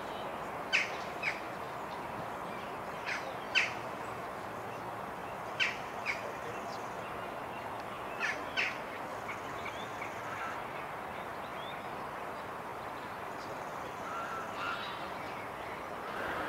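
A bird calling in short pairs of calls, four pairs spaced a few seconds apart, over a steady outdoor background hiss.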